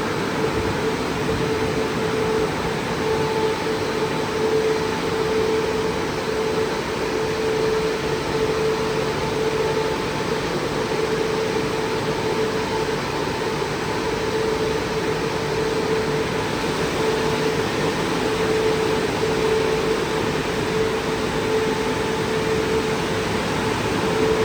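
Christ Vega C170 rollover car wash machine running: a steady rushing noise with a constant hum.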